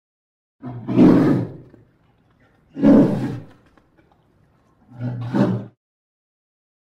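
Bear roaring as a film sound effect: three short roars, each about a second long and about two seconds apart.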